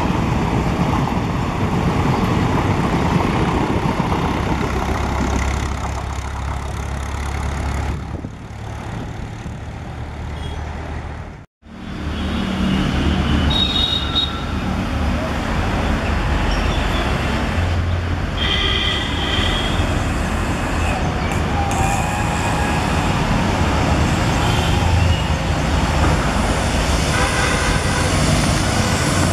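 Passenger coaches rushing past close by at speed: a steady rumble and rush of wheels on rail that eases off, then breaks at an abrupt cut about eleven seconds in. After the cut comes the steady running noise of a WAP-7 electric locomotive and its coaches approaching, with a few short high tones.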